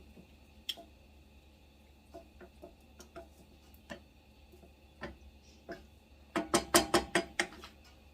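Kitchen handling sounds: scattered light clicks and knocks, then a quick run of about eight sharp clacks a little over six seconds in.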